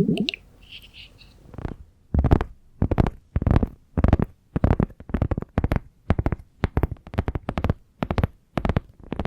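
Close-miked ASMR trigger sounds: a steady series of short, soft-edged strokes, roughly one every half second, with a deep, full low end.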